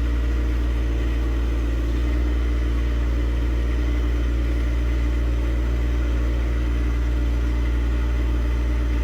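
John Deere tractor's engine running steadily at one even speed, with no change in pitch or loudness.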